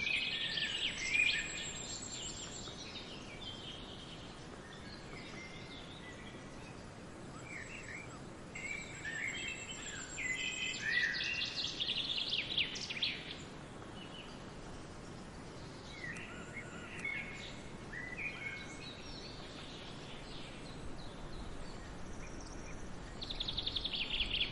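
Several songbirds singing and calling in bursts of chirps, whistles and trills, with a fast repeated trill near the end, over a steady soft background hiss.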